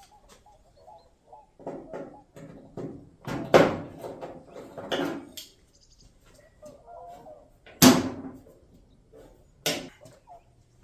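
Irregular sharp knocks and clicks of hand tools and sheet metal being handled, the two loudest about three and a half and eight seconds in, a third near the end.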